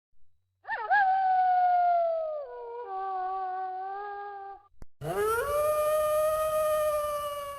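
Wolf howling: two long howls, the first sliding down in pitch and stepping lower partway through, the second rising and then held on one pitch.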